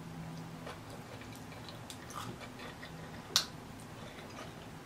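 A person chewing a mouthful of taco with lips closed: faint scattered mouth clicks over a low steady hum, with one sharp click about three and a half seconds in.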